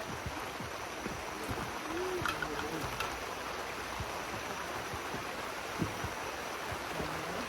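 Steady rushing of flowing water, with faint voices in the background.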